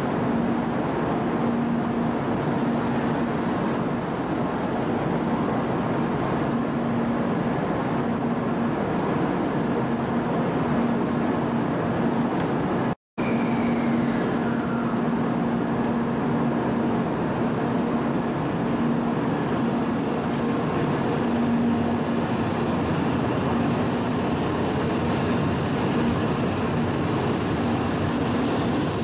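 N700-series shinkansen standing at the platform with a steady equipment hum. The sound drops out briefly about halfway through, and near the end the train starts to pull away.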